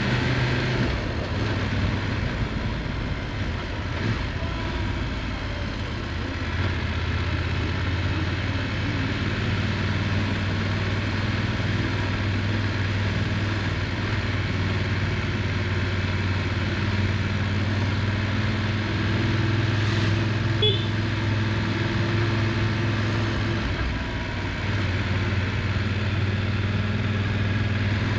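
Motorcycle engine running as the bike is ridden, its note mostly steady with a couple of brief dips where the throttle eases. A short sharp click sounds about twenty seconds in.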